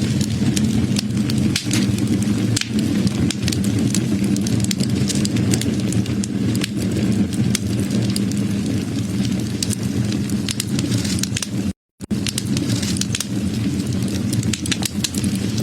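Wood fire burning, with a steady low rumble and many sharp crackles and pops throughout. The sound cuts out completely for a split second about three-quarters of the way through.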